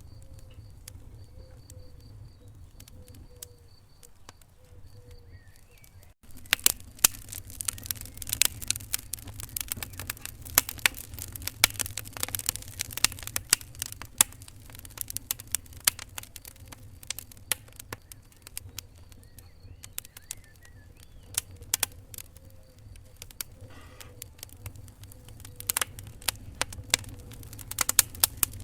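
Wood fire in a fireplace crackling, with many sharp pops over a low steady rumble of the flames. The crackling is sparse at first, cuts out briefly about six seconds in, then comes back much denser, with a cluster of loud pops near the end.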